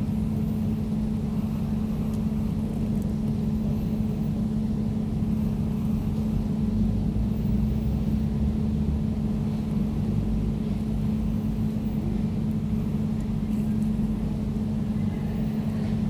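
Air conditioner running steadily: an even, low hum with one strong held tone over a deeper rumble.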